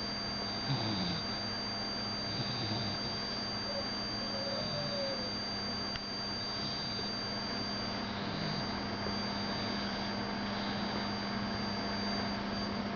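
Sleeping dogs snoring softly in irregular breaths, with a brief faint squeaky note about four seconds in, over a steady electrical hum and hiss.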